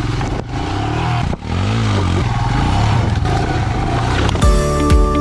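Motorcycle engine running under way. Its note cuts out and dips twice, about half a second and a second and a half in, then climbs again, as with throttle lifts for gear changes. Music with a steady beat comes in about four and a half seconds in.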